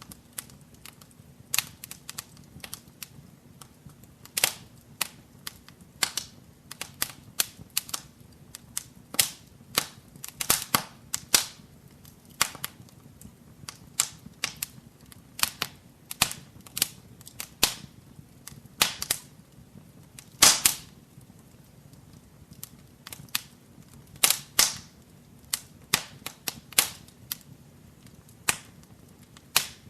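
Wood fire burning in a fireplace, crackling with irregular sharp pops and snaps of varying loudness over a faint low rumble of the flames.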